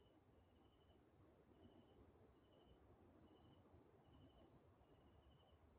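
Faint chorus of insects, likely crickets: a steady high-pitched trill with short chirps from several callers repeating a little faster than once a second.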